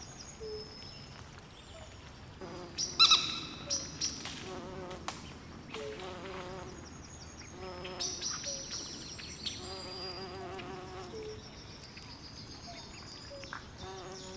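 Night swamp ambience with frogs and other creatures calling: low wavering trills repeating on and off, short high chirps throughout, and one louder call about three seconds in.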